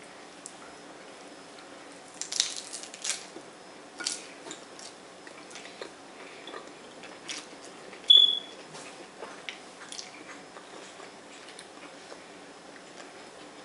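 Close-up eating sounds: chewing and crunching on a lettuce-wrapped taco, with wet mouth noises. A few louder crisp bites come about two to three seconds in, and a short, sharp high click about eight seconds in is the loudest sound.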